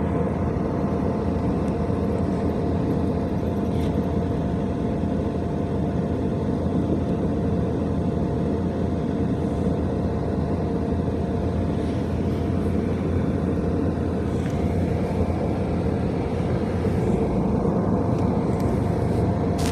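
Steady vehicle noise: a continuous low rumble with a faint constant hum, unchanging throughout.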